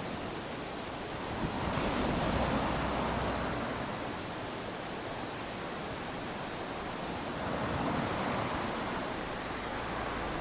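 Small waves lapping onto a sandy beach: a steady wash of surf that swells twice, as one wave rushes up about two seconds in and another about eight seconds in.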